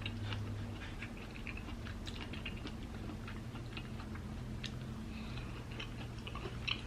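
A person chewing a mouthful of taco close to the microphone, heard as faint scattered soft mouth clicks over a low steady hum.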